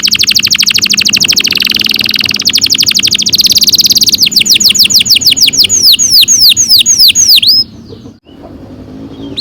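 Domestic canary singing a long rolling trill: a very fast buzzing roll for about four seconds, then a run of slower, downward-sliding whistled notes, about four a second, that stops near the end.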